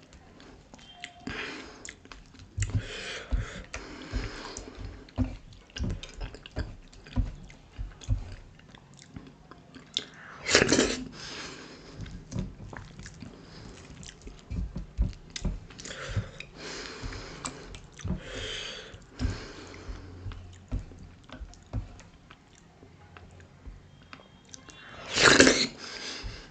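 Close-miked wet chewing and lip-smacking of soft dhido porridge and sisnu (stinging nettle) curry eaten by hand, with many small mouth clicks. Two louder wet mouth sounds stand out, about ten seconds in and near the end.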